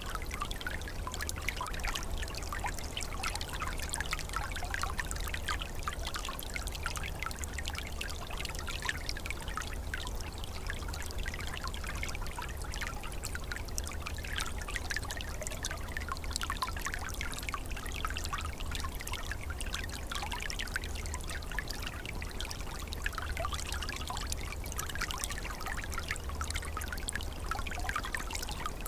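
Small winter forest stream trickling and bubbling steadily, with a constant patter of small splashes and a steady low rumble underneath.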